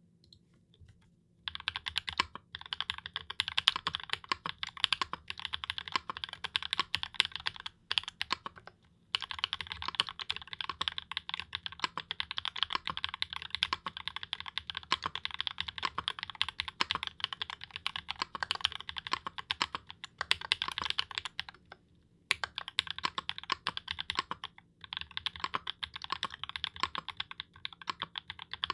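Typing on a Blackbird mechanical keyboard with XMI Beige switches and GMK Modern Dolch keycaps: a fast, continuous stream of keystrokes that starts about a second and a half in and stops briefly a few times.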